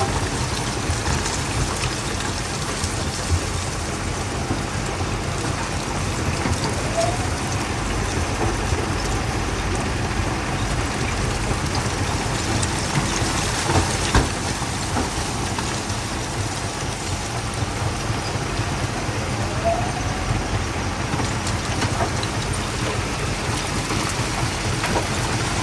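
Primary jaw crusher running, a steady low rumble under a dense crackling clatter of rock being broken, with a few sharp cracks standing out.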